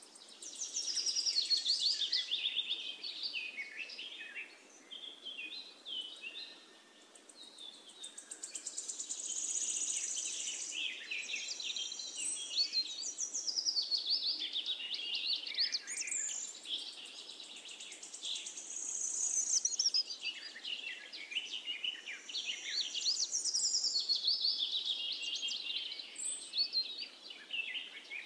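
Several small birds chirping and singing, a busy run of high, quick notes that swells and fades.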